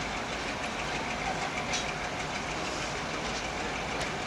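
Passenger train's coaches rolling past on departure, a steady rumble with wheels clacking over the rail joints.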